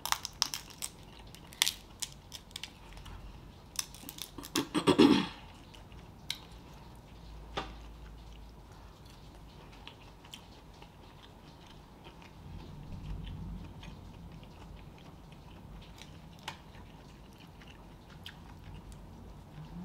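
Close-miked eating sounds from a spicy seafood boil: chewing with wet smacks and small lip and finger clicks. The mouth noise is busier and louder in the first five seconds, with a short louder burst about five seconds in, and is quieter after that.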